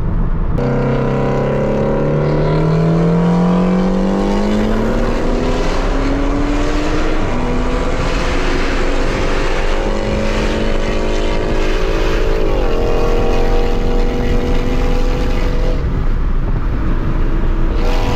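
Engine of a tuned MK5 Toyota Supra with a turbocharged B58 inline-six accelerating through the gears: the note climbs steadily in pitch, drops at an upshift about seven seconds in and again near twelve and a half seconds, then holds steady.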